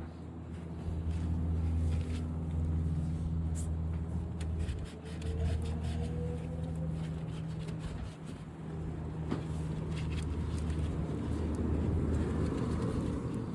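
Pressure washer motor running with a steady low hum, dipping briefly a couple of times.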